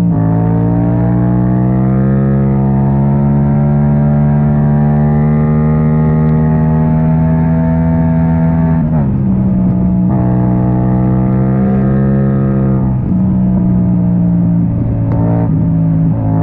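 Yamaha MT-07's parallel-twin engine through a very open Akrapovic exhaust, pulling under throttle with its pitch climbing slowly for about nine seconds. The pitch then drops suddenly as the throttle is shut or a gear is changed, climbs again, and drops again about thirteen seconds in.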